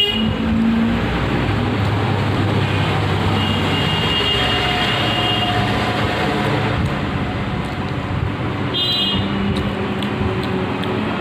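Steady road traffic noise of passing vehicles, with a short horn honk about nine seconds in.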